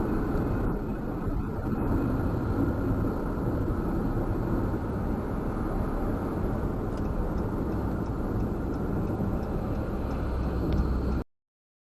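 Steady road and engine noise of a car driving at speed, heard from inside the cabin, that cuts off suddenly near the end.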